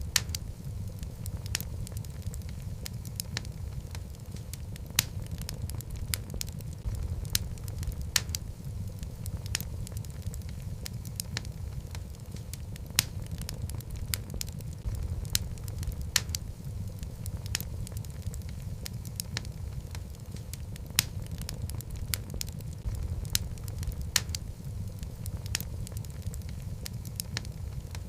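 Logs burning in a fireplace: a steady low rumble of the flames with frequent sharp, irregular crackles and pops from the wood.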